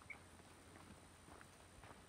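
Faint footsteps, soft irregular steps about twice a second, otherwise near silence.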